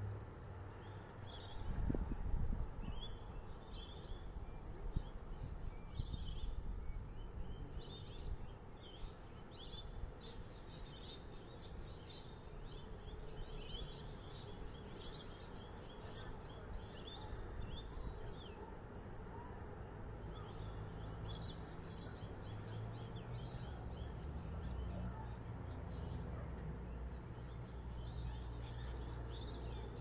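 Birds chirping, many short high calls repeated throughout, over a steady low outdoor rumble that swells briefly about two seconds in.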